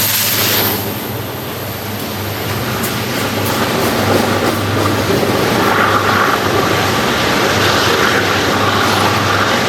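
Mixed freight train passing, a steady rumble with a low drone from its diesel locomotives and rolling freight cars.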